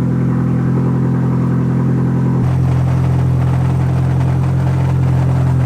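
2001 Audi TT Quattro's 1.8-litre turbocharged four-cylinder idling just after starting from storage, its idle stepping down about two and a half seconds in. Under it runs a rattling racket that the owner puts down to a dual-mass flywheel that came apart.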